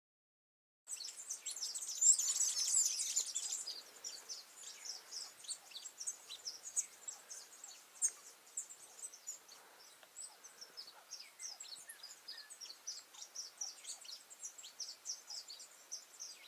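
Small birds chirping: a stream of many short, high chirps, busiest and loudest in the first few seconds, then scattered chirping that goes on steadily.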